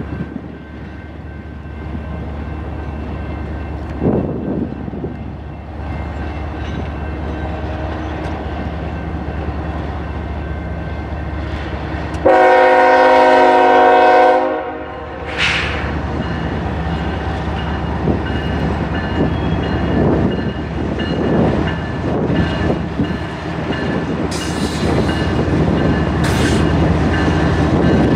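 Diesel freight locomotive running with a steady low rumble; about halfway through it sounds its air horn once, a multi-note chord held for about two seconds. Afterwards the rumble turns rougher, with the clatter of rail cars passing over the track.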